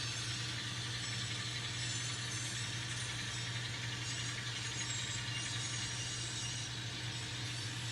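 N scale model locomotives running and shoving a string of loaded hopper cars: a steady motor hum with a light rattle of small wheels on the track.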